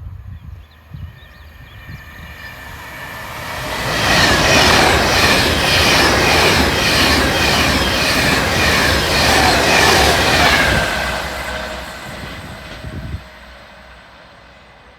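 A train passing through at speed, growing louder over a couple of seconds, loud for about seven seconds, then fading away. The wheels beat in a regular rhythm over the rails, under a high ringing tone from the wheels on the track.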